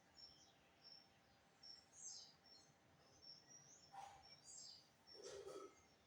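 Faint, scattered short high bird chirps, with a brief lower sound about four seconds in and another a second later.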